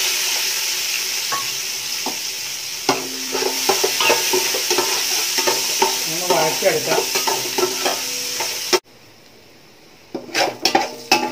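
Chopped ginger and garlic sizzling in hot oil in a metal pot, with a steel spoon scraping and clinking against the pot as it is stirred. The sizzle cuts off suddenly near the end, and quieter stirring scrapes follow.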